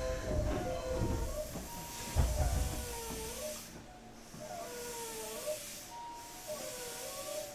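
Nankai 8300 series electric train car heard from on board: a heavy running rumble that fades after about three seconds, under a steady hiss and several thin whistling tones that dip and rise in pitch.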